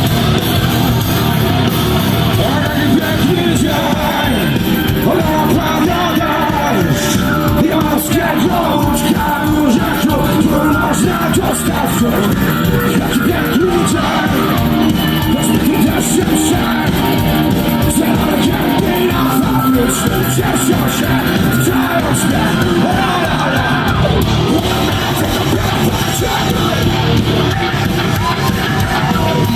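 Live rock band performance recorded from the audience in a concert hall, with singing and crowd yelling over the music.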